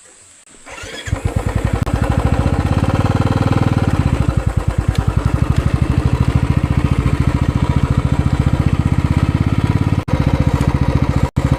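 Motorcycle engine running loud and close, its firing pulses fast and even. It comes in about a second in and cuts out briefly twice near the end.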